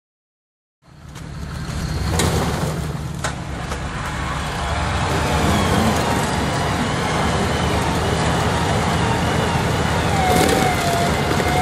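Vehicle engine running steadily, with a faint wavering higher whine over it, as a Jeep Grand Cherokee stuck in mud is pulled on a strap; the sound fades in about a second in, with a couple of sharp clicks soon after.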